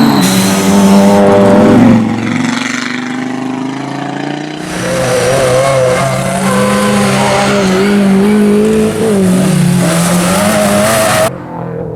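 Rally car engines revving hard at full throttle, pitch climbing and dropping through gear changes, with tyre and road noise as a car passes close. The sound breaks off suddenly near the end.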